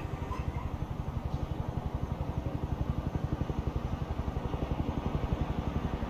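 A motor engine running with a low, rapid pulse, growing slightly louder toward the end.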